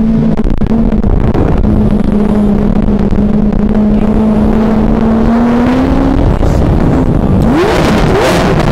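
Lamborghini Aventador SV's naturally aspirated V12 engine running at a steady engine speed while cruising. Near the end the revs climb in several quick rising sweeps.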